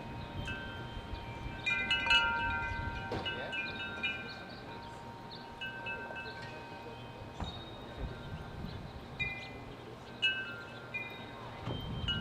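Metal wind chimes ringing, several clear tones sounding together in irregular clusters.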